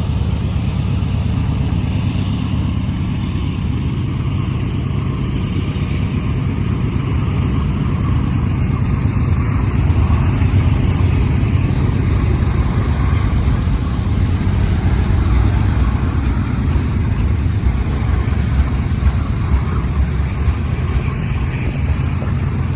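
Diesel freight locomotives of an intermodal stack train, a steady low engine rumble.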